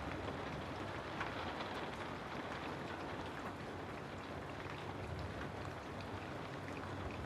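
Steady rain falling on a house, an even patter with scattered individual drops ticking.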